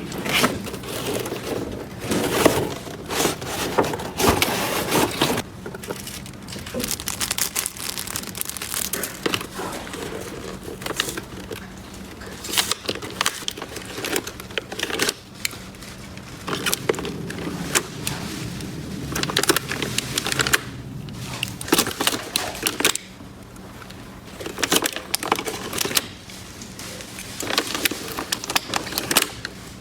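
Small plastic toy pieces and packaging being handled: irregular clicks, taps and crinkly rustling throughout.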